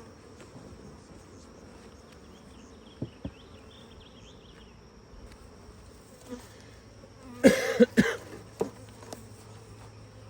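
Honeybees buzzing around an opened hive, stirred up after being brushed off the comb. A quick cluster of sharp knocks comes a little past the middle and is the loudest sound.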